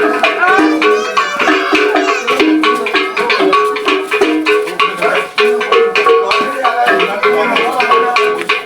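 Local traditional music played by a live percussion group, with a fast, dense beat and a stepping melody over it.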